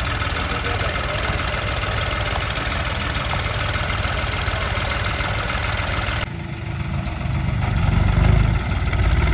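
Tractor engine running, with an even low pulse. About six seconds in, the sound cuts abruptly to a deeper, louder rumble that grows toward the end, like an engine working harder.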